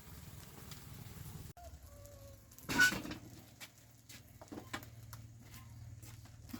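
A chicken gives one loud, brief squawk about halfway through, followed by scattered light ticks and knocks.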